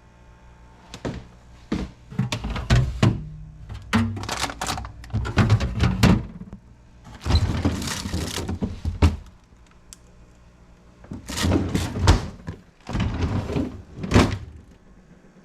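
Repeated knocks, thunks and sliding scrapes as refrigerator doors, drawers and shelves are handled and things are moved and set down while the fridge is cleaned out.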